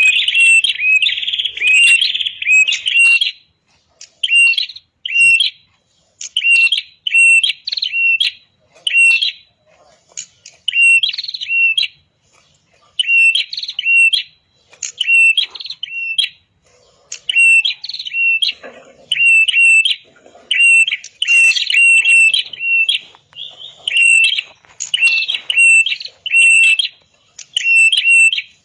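Red-headed prenjak (prenjak kepala merah) singing loud, rapid, sharp chirping phrases in short bursts about a second long, separated by brief pauses.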